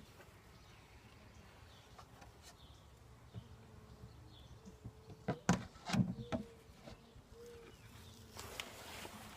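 Honeybees buzzing around an open hive: a steady low hum, with single bees droning past. About five to six and a half seconds in comes a cluster of sharp knocks and clicks from the hive being worked, and near the end a short rushing hiss.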